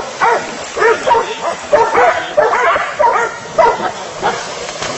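Dog barking repeatedly, about two short barks a second, easing off near the end.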